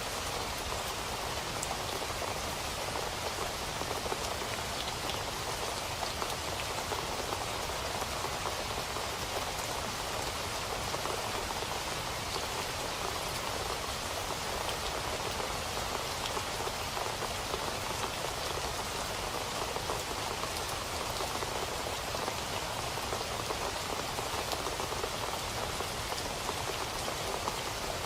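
Steady rain falling, an even hiss of many small drops hitting a surface with no let-up.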